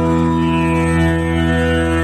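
Tanpura drone tuned to E: a steady, continuous drone with many overtones that shimmer and slowly sweep up and down.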